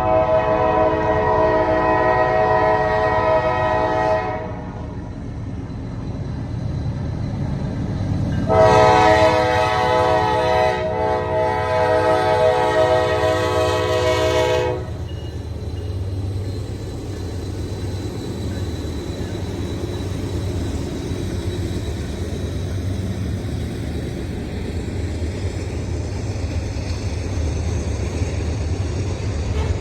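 Norfolk Southern diesel locomotive's air horn sounding two long blasts of a multi-note chord, the first about four seconds and the second about six, over the low steady rumble of the moving train, which carries on alone after the second blast.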